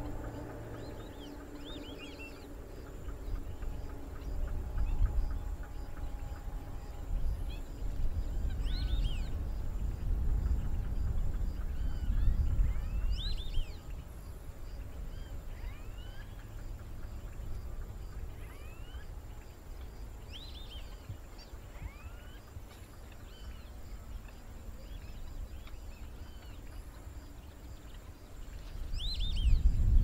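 Wetland ambience of short chirping bird calls that repeat throughout, rising and falling in pitch. A low rumble of wind on the microphone swells through the first half and again near the end.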